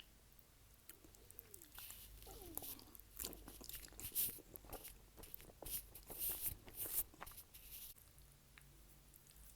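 A person eating spaghetti and garlic bread: wet mouth sounds and chewing, with a busy run of crisp smacks and crunches from about two to eight seconds in.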